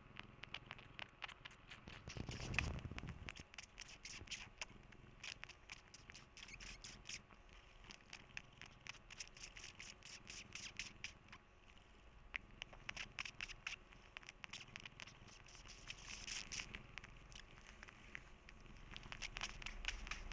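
Domestic cat purring softly, with many small clicks and rustles over the purr and a louder rustle about two and a half seconds in.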